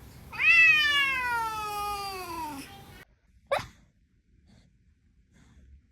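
A domestic cat's long, drawn-out meow that rises quickly and then slides slowly down in pitch for about two seconds before cutting off. A brief high sound follows about a second later.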